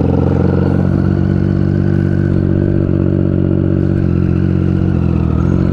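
Motorcycle engine idling steadily, its pitch holding nearly constant with slight shifts about a second in and around four seconds.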